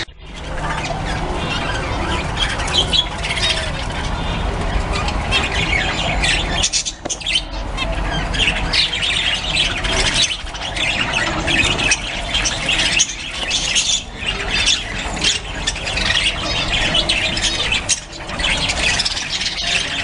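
A flock of budgerigars chattering and squawking continuously, many birds calling over one another.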